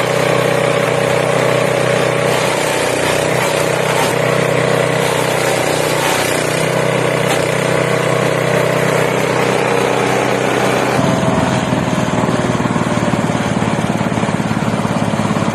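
Small engine of a multifunction chopper machine running steadily; its note changes and turns rougher about eleven seconds in.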